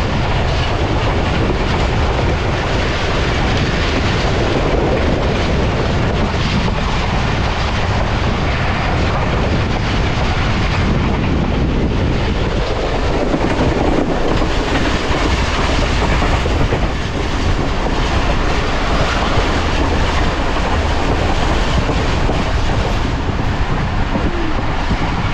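Passenger train coach running at speed, with the steady, loud rumble and rattle of its wheels on the rails.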